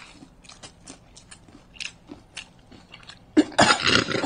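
Crunching and chewing as people bite into crispy breaded fried chicken, with small sharp crunches scattered through. A much louder, denser burst of noise comes near the end.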